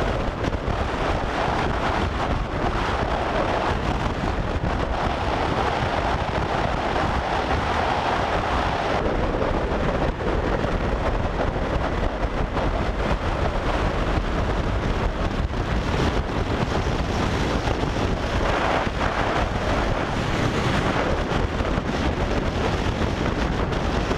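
Steady wind rushing over a helmet-mounted microphone on a moving motorcycle, with motorcycle engine and road noise underneath.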